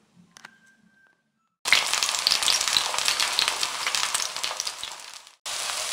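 Zucchini slices frying in hot oil in a pan: a dense sizzle full of small crackles that starts abruptly after a near-silent first second and a half, cuts out for a moment near the end and comes straight back.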